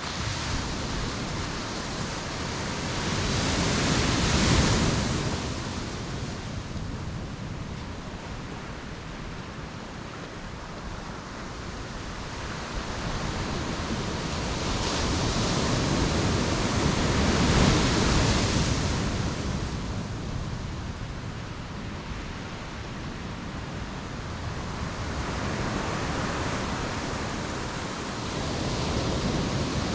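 Ocean waves breaking on a beach, the surf swelling and falling away; two big waves crash about four seconds in and again just past halfway, and another builds near the end.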